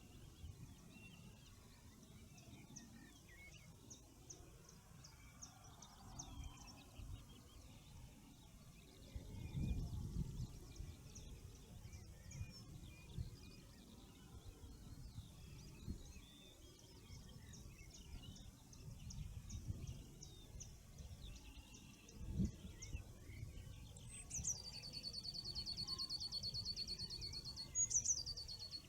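Wild songbirds singing in the morning: runs of thin, high repeated notes, then near the end a loud, even trill that lasts about three and a half seconds. Low rumbles come and go underneath.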